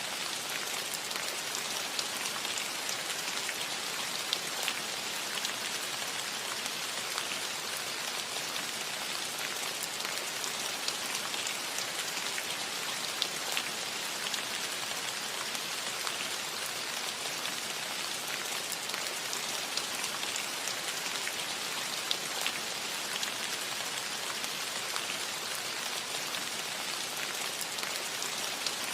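Steady gentle rain falling on a metal roof: an even hiss with scattered sharp drop ticks throughout.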